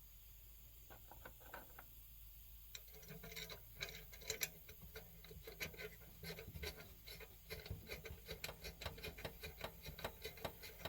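Faint, irregular metallic clicks and taps of small stove parts and tools being handled as a Coleman 523 stove is worked on and reassembled. The clicks start sparse and come more often from about three seconds in.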